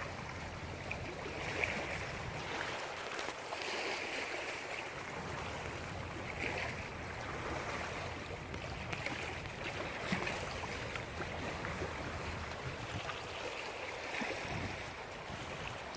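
Thunderstorm rain and wind: a steady hiss with a few swells and scattered small clicks.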